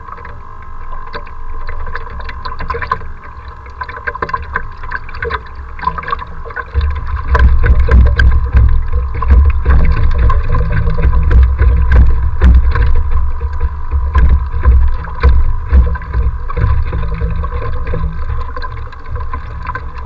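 Strong wind buffeting the microphone, a rumble that grows much louder about seven seconds in, with many sharp slaps and splashes of waves. A steady thin whine runs underneath.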